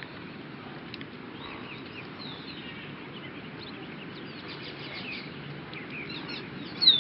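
Small birds chirping and twittering in short high notes over a steady outdoor background noise, with a louder burst of chirps near the end.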